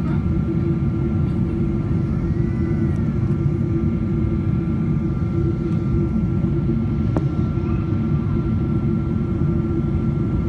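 Boeing 777-200ER's Pratt & Whitney PW4090 engines and airflow heard inside the cabin as a steady low roar with a thin steady whine above it. A single sharp click about seven seconds in.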